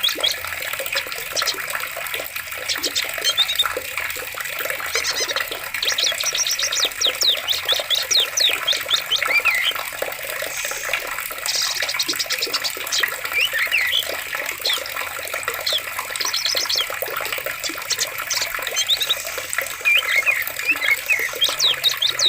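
Steadily flowing forest water with many birds chirping over it, including several rapid high trills.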